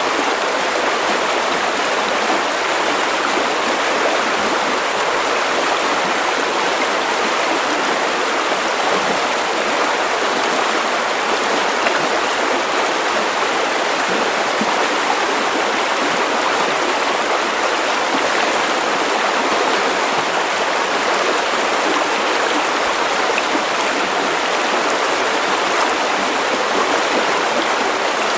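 River water running over stones, a steady, unbroken rushing.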